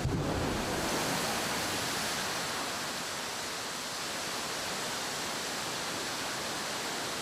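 Steady rush of water cascading down the rockwork in the Catastrophe Canyon flood effect, with a low rumble at the very start.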